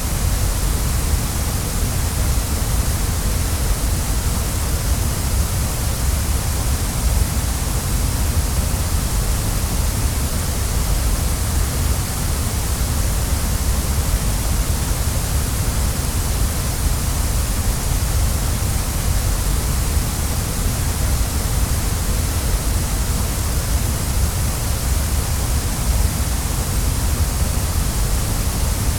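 Waterfall: falling water making a steady, unbroken rush, deep at the bottom with a hiss on top.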